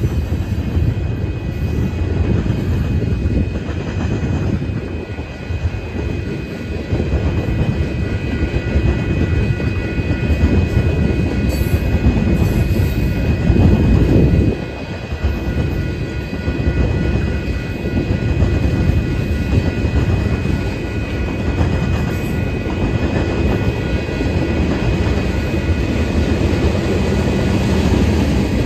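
Freight train tank cars rolling past close by: a steady rumble of steel wheels on the rails, with faint steady high tones over it. It swells for a few seconds and drops off suddenly about halfway through.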